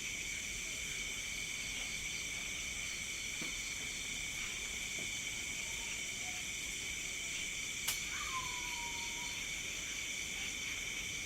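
Steady night chorus of crickets and other insects, several high trilling bands at once. About eight seconds in, a sharp click is followed by a short falling call.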